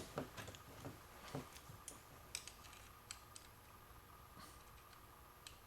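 Faint scattered clicks and taps of small metal parts and hand tools being handled, several in quick succession in the first couple of seconds, then a few more spaced out.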